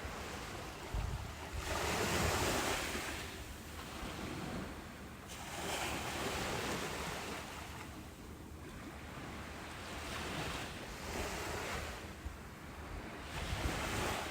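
Ocean surf: waves breaking and washing up a beach in repeated swells, the biggest about two seconds in, with smaller surges around six, eleven and thirteen seconds. Low wind rumble on the microphone underneath.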